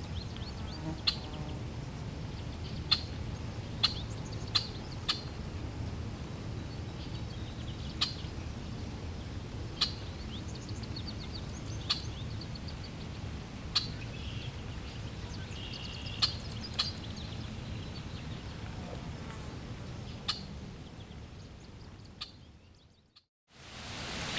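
Birds chirping: short, sharp calls every second or two over a low, steady outdoor rumble. The whole scene fades out near the end.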